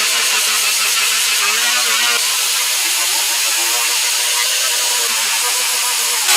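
Power grinder running steadily while grinding down the dented car door panel. It is released right at the end and begins to spin down.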